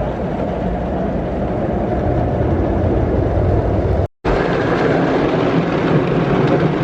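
Steady car noise: a running car's engine and road rumble as heard from inside it. It cuts out for a split second about four seconds in and resumes.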